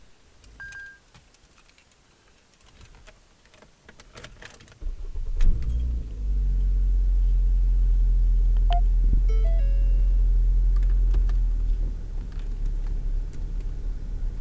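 A few light clicks, then a car engine starts about five seconds in and idles steadily, settling to a lower level near the end. A few short electronic beeps sound while it runs.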